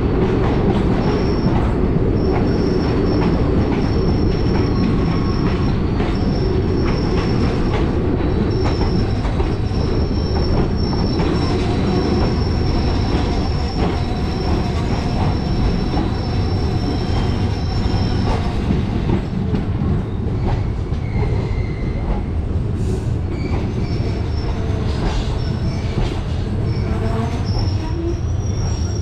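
Passenger express train running on the track: a steady loud rumble with a high wheel squeal that comes and goes until about two-thirds through, and scattered clicks from the wheels.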